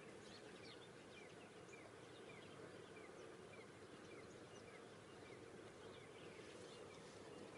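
Near silence with faint steady hiss, and a bird chirping faintly in a steady series of short calls, about two a second.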